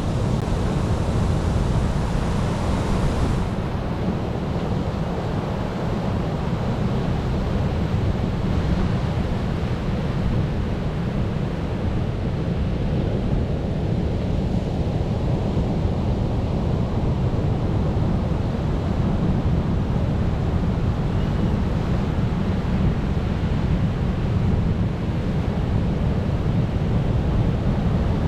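Ocean surf washing steadily, a continuous deep wash of waves with no separate breaks standing out.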